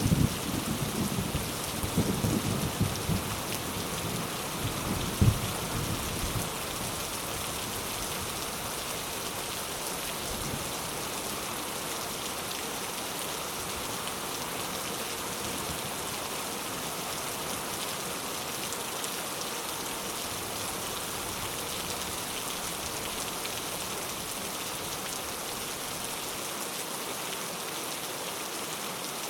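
Steady, even rain. A low thunder rumble dies away over the first several seconds, with a couple of louder swells.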